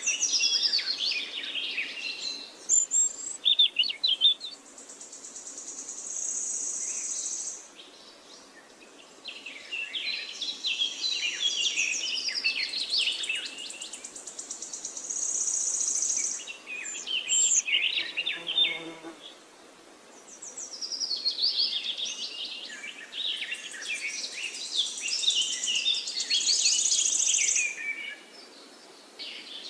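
Birds chirping and singing in busy waves of song, each several seconds long, with a high buzzing trill running through the loudest stretches.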